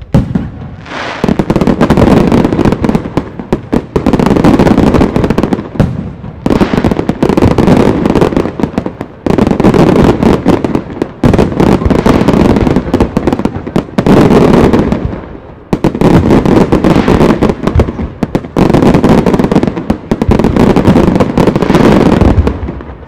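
Fireworks display going off in rapid volleys: dense runs of sharp bangs and crackles, each lasting two to three seconds, one after another with brief gaps between them.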